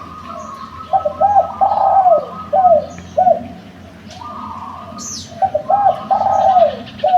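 Derkuku (spotted dove) cooing in two repeated phrases of rounded, arching coos, a few seconds apart, with other small birds chirping behind.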